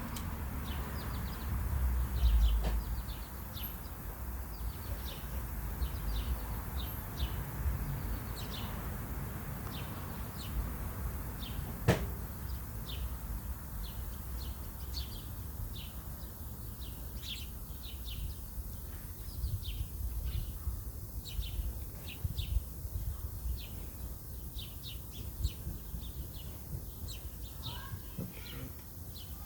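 Small birds chirping: many short, high chirps scattered throughout, over a low rumble, with a single sharp click about twelve seconds in.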